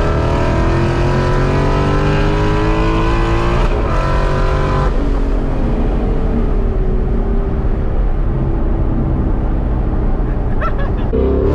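Supercharged Ford Mustang GT's 5.0 V8, with a centrifugal supercharger, heard from inside the cabin under hard acceleration. The pitch rises for nearly four seconds, breaks briefly for a gear change, climbs again, then falls away slowly as the throttle is lifted.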